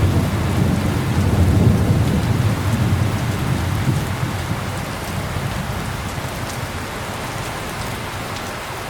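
Heavy rain falling steadily, with a low rumble of distant thunder rolling through the first few seconds and dying away by about halfway.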